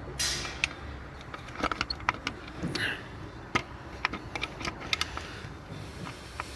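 Scattered metallic clicks, clinks and short scrapes of a bolt and heat shield being handled and fitted by hand in a car engine bay.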